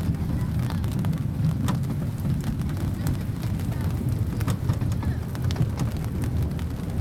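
Steady low rumble of a small zoo park train in motion, with scattered light clicks and rattles.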